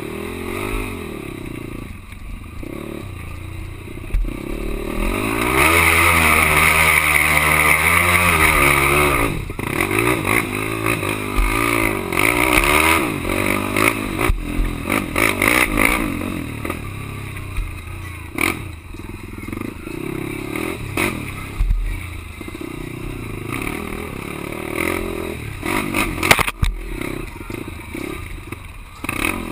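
Quad (ATV) engine running and revving, its pitch rising and falling, with the longest, loudest pull about six to nine seconds in. Short knocks and rattles come through throughout.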